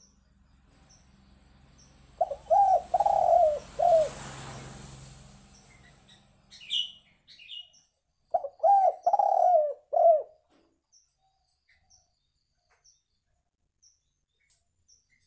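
Spotted dove (tekukur) cooing: two phrases of about four low notes each, the third note the longest, a few seconds apart.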